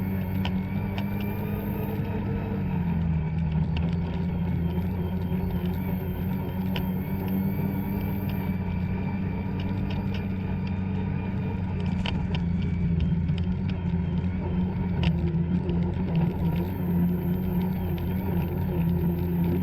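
Two-stroke snowmobile engine running at a fairly steady speed, its pitch dipping a little about three seconds in and then holding, with scattered light clicks and knocks over it.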